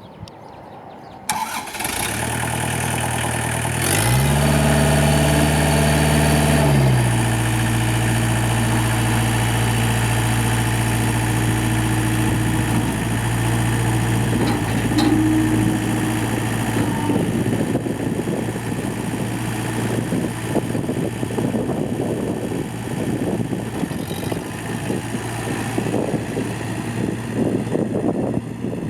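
Daedong tractor's diesel engine starting about a second in and settling into a steady idle, then revved up for a few seconds before dropping back to idle.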